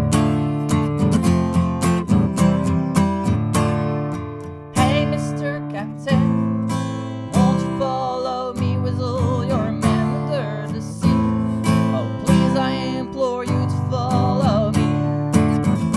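Strummed acoustic guitar keeps up a steady rhythm in an instrumental break of a folk song. About five seconds in, a wavering lead melody enters over the chords.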